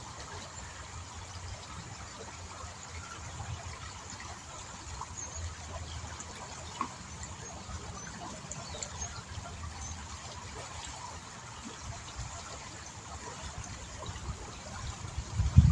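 Small river flowing, its water trickling steadily, with a few faint clicks.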